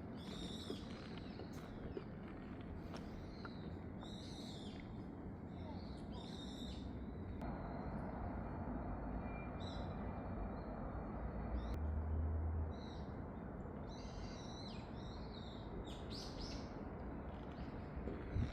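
Wild birds calling in repeated short bursts of high calls, over a steady low background noise.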